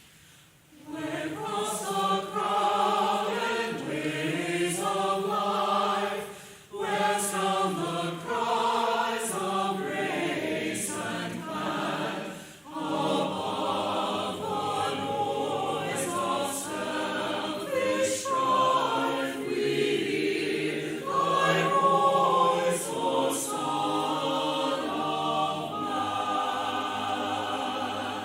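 Church choir singing a sacred piece in several voices. It starts about a second in, with two short breaks for breath, and stops at the end.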